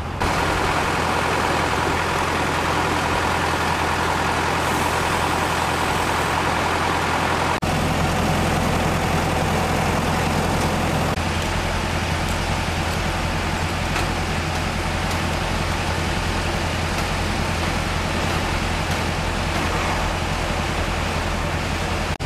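Heavy truck engine running steadily with a deep, even hum under a broad hiss. The hum deepens about seven and a half seconds in.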